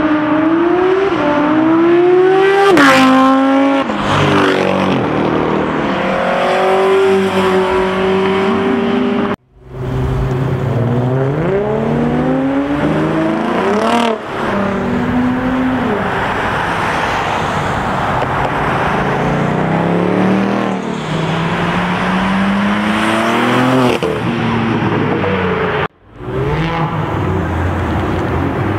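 A drift car's engine revving hard, its pitch climbing and falling again and again, with tyre squeal as the car slides. The sound cuts out abruptly for a moment twice, about a third of the way in and near the end.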